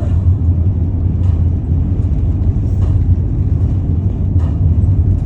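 Steady low rumble of a car on the move, with no music or speech over it. Three faint ticks come about a second and a half apart.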